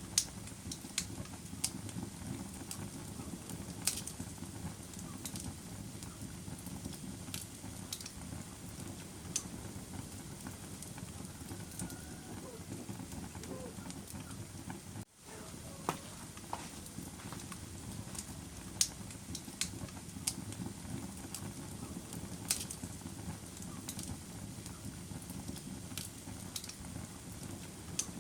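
Wood fire burning in a fireplace: a steady low rushing with irregular sharp crackles and pops, and a brief drop-out about halfway through.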